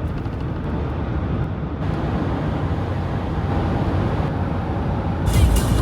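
Steady rumble of a vehicle in motion, engine and road noise. Music comes in near the end.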